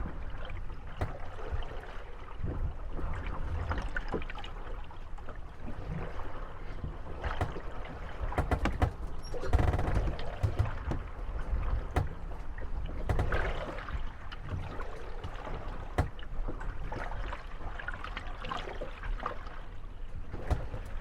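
Moored gondolas rocking on the waves, their wooden hulls creaking and knocking against one another over steady water lapping, with scattered sharp knocks and a louder stretch about halfway through.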